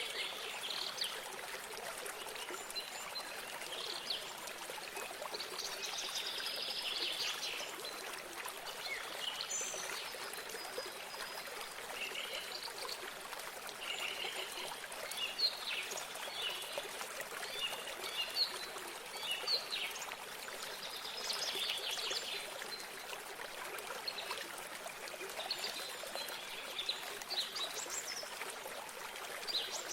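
A small stream of water trickling steadily, with birds chirping and calling in short scattered bursts over it.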